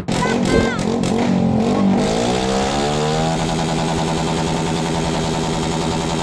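A fireworks barrage going off in one continuous, dense run, with short whistles from the rockets in the first second or so, then a steady, unbroken din.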